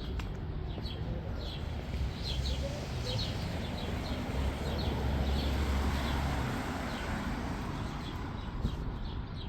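Small birds chirping in short, high, repeated notes over a steady low rumble of outdoor street ambience.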